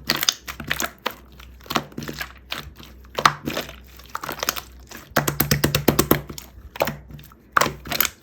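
Close-up crinkling and crunching handling sounds, irregular clusters of crackles and clicks with a denser run about five seconds in.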